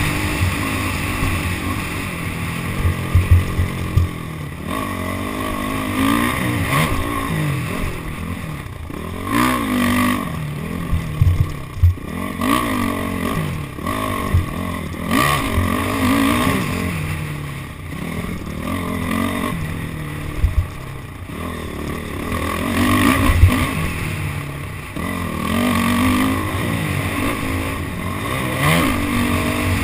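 Honda CRF450R four-stroke single-cylinder dirt bike engine being ridden hard, its pitch rising and falling over and over as the throttle opens and closes, heard from a GoPro on the bike. A few sharp knocks stand out above the engine.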